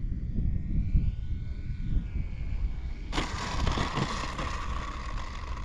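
Faint whine of the E-flite Valiant 1.3M's electric motor and propeller, its pitch gliding up and down as the plane comes in to land, over a low wind rumble on the microphone. About three seconds in, a sudden louder hiss starts and holds.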